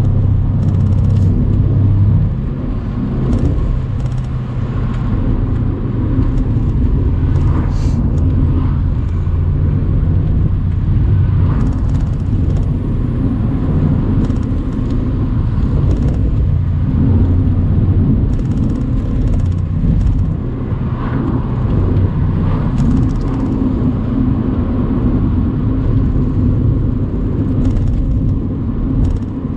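Mercedes-AMG C63's twin-turbo 4.0-litre V8 droning steadily as the open-top car drives along a road, with a small easing of the engine note about two seconds in.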